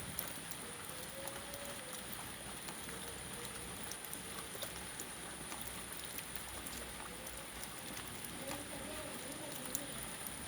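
Steady rain falling, with individual drops ticking on a surface. A faint steady high-pitched tone runs underneath, and faint wavering calls or voices come through about a second in and again near the end.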